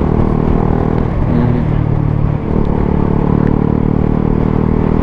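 125 cc single-cylinder motorcycle engine with a Mivv GP Pro aftermarket exhaust, running under way. The note is steady, with a brief shift in pitch about a second and a half in.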